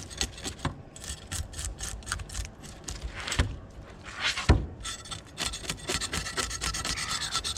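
Scales being scraped off a whole bream in quick repeated strokes, a few a second. One louder knock about four and a half seconds in.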